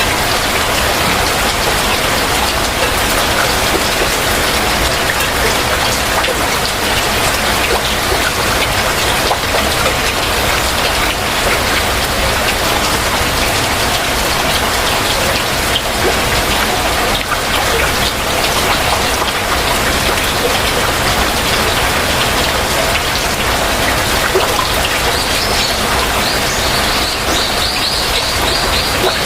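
Heavy rain falling steadily. In the last few seconds a bird calls with a rapid run of short, high chirps over the rain.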